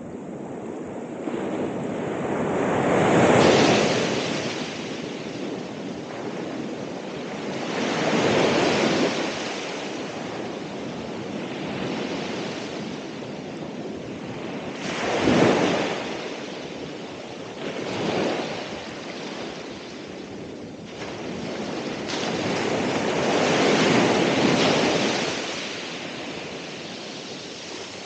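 Ocean surf: waves breaking and washing in, about five surges that swell and fade a few seconds apart over a steady wash.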